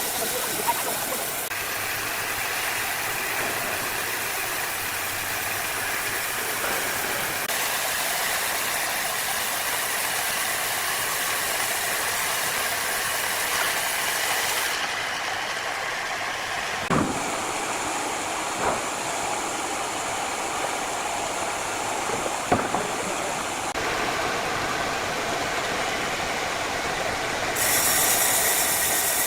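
Wood-cutting saw machinery running with a steady mechanical noise, with three sharp knocks a little past the middle.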